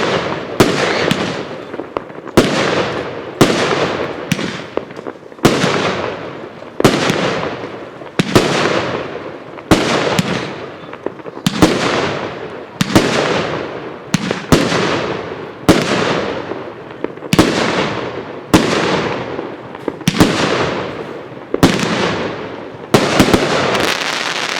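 Consumer fireworks cake ('Magicians') firing shot after shot: a sharp bang about every one and a half seconds, each fading into a crackling tail, with shots coming closer together near the end.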